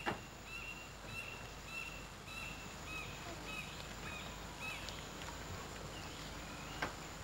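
A bird chirping the same short note over and over, about every half second, stopping about five seconds in, over a faint outdoor background. A sharp click comes at the start and another near the end.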